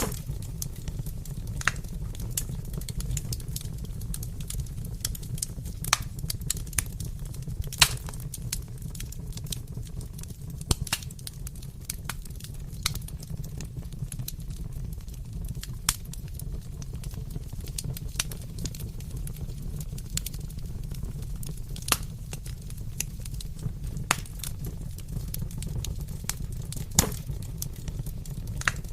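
Wood fire burning in a fireplace: irregular crackles and sharp pops over a steady low rumble, with one louder pop about eight seconds in.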